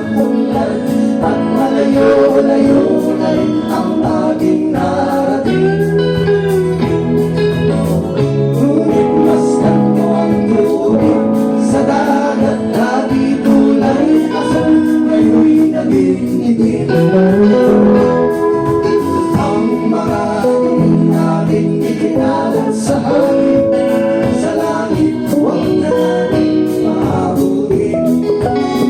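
Live folk band playing: a voice singing a melody over strummed guitar and accompaniment.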